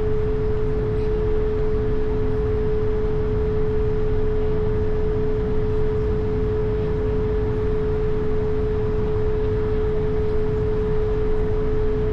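Airbus A220's Pratt & Whitney PW1500G geared turbofans running steadily, heard from onboard as a dense low rumble and rush with a steady hum tone above it.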